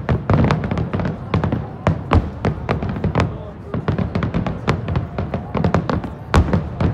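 Aerial fireworks exploding in quick succession, a dense run of sharp overlapping bangs and crackles, about three a second.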